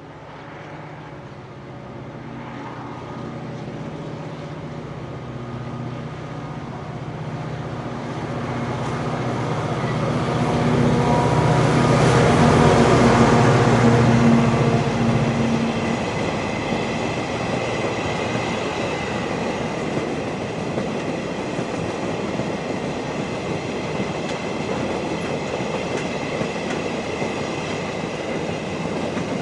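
Diesel freight locomotive passing, its engine note building to a peak about halfway through and then dropping away. The quarry train's wagons follow, rolling past with a steady rumble and a thin high wheel squeal.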